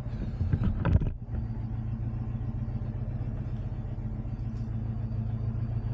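Vehicle engine idling steadily, a low even hum, with a short louder sound in the first second.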